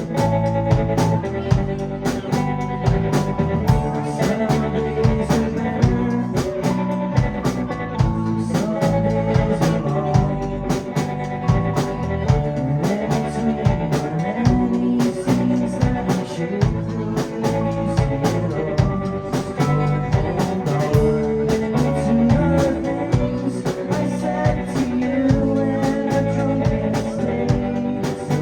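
Rock band playing live: electric guitar, bass and drum kit, with steady drum hits.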